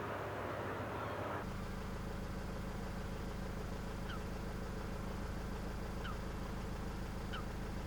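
An engine running with a steady low hum, which sets in abruptly about a second and a half in after a stretch of noisy rushing. Four short high chirps come over it at intervals of one to two seconds.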